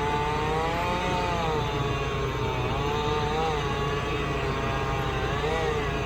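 Tractor engine running steadily, with a whining tone that drifts up and down in pitch.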